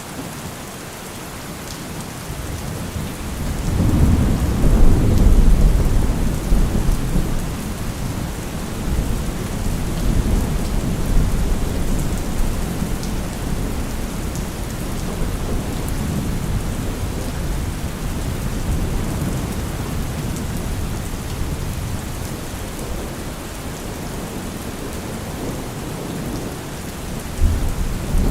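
Steady rain with rolling thunder: a low rumble swells about four seconds in and slowly dies away under the rain, and another rumble begins near the end.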